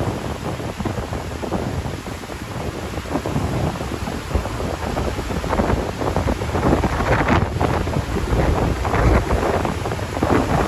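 Strong wind buffeting the microphone, a gusty low rumble over the wash of surf on the beach. The gusts grow stronger about halfway through.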